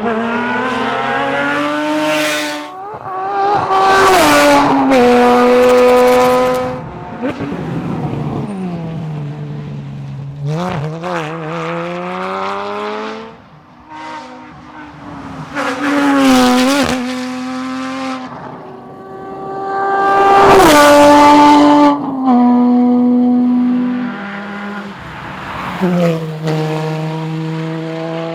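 Porsche Cayman GT4's 3.8-litre flat-six engine at racing speed, revving hard up through the gears with a step down in pitch at each gear change, then dropping off as the throttle lifts for corners and climbing again. Its pitch and loudness rise and fall several times, with the two loudest pulls at high revs about four and twenty seconds in.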